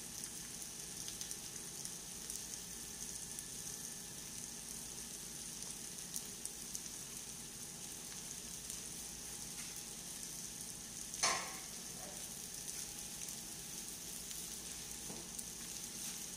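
Cabbage bake sizzling steadily in an open double-sided frying pan over a gas burner, with fine crackles. One sharp clatter about eleven seconds in.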